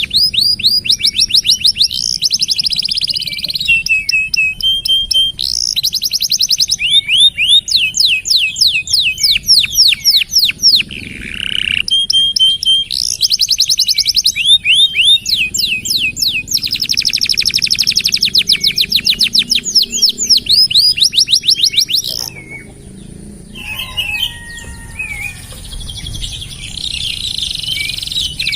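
Domestic canary singing long, fast trills and rolls of rapidly repeated notes. The song drops to a few softer notes about 22 seconds in, then picks up again near the end.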